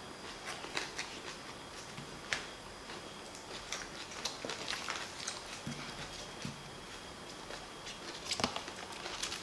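Close-up eating sounds of raw Chinese green onion with chili paste: wet chewing crunches and mouth clicks, scattered and irregular, with the onion stalks rustling as they are handled. One louder crack comes about eight seconds in.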